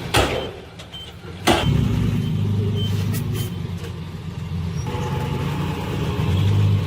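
Dump truck engine running with a steady low hum while its reversing alarm beeps a few times. Two loud sudden bursts, one at the very start and one about a second and a half in, cut across it.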